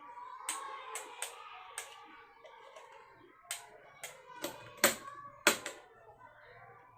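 Electric fan parts being handled during repair: a series of about nine sharp clicks and knocks at irregular intervals, the two loudest about five seconds in.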